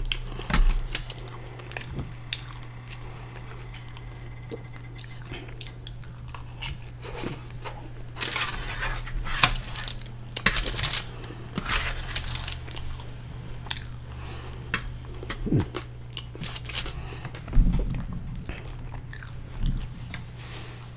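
Close-up chewing and lip-smacking of a mouthful of loaded fries, with scattered clicks and scrapes of a metal fork against a foil-lined tray. A steady low hum runs underneath.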